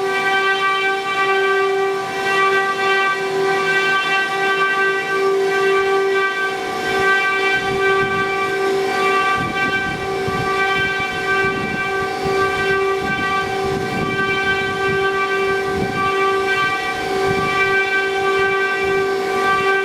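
Spindles of a multi-head 4-axis CNC wood router running with a steady high whine, with rough cutting noise coming and going through the middle stretch as the bits work the wood.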